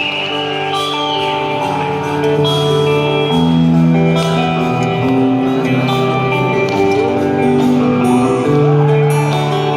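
Live rock band playing an instrumental intro in a large hall: sustained guitar and keyboard chords that change every second or two, with no vocals yet.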